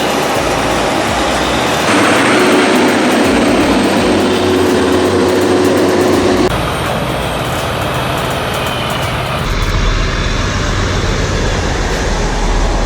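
Heavy trucks hauling oversized loads: steady engine and road noise that changes abruptly about two, six and nine seconds in, as one clip cuts to the next.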